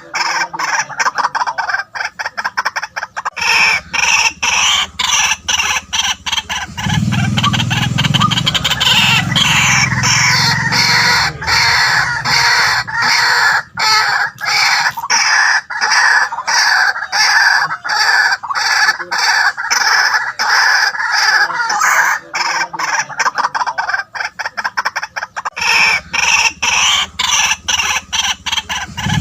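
White-breasted waterhens calling: a loud, unbroken run of rapid, repeated harsh notes.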